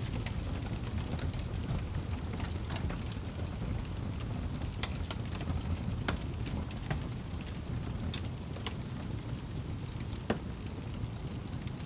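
Wood fire in a fireplace crackling: a steady low rush of burning with irregular sharp pops and snaps scattered throughout, one louder snap about ten seconds in.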